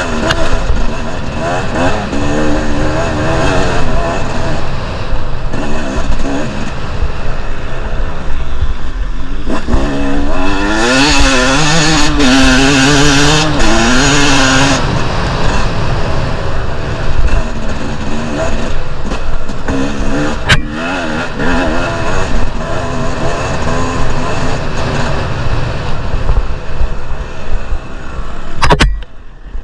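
Two-stroke enduro dirt bike engine on the move, its pitch rising and falling over and over as the throttle opens and closes. A loud hiss sweeps over it for a few seconds midway.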